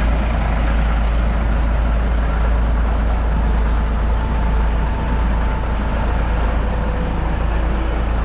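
A heavy truck's diesel engine running steadily: a constant deep rumble under a loud, even background of engine and road noise.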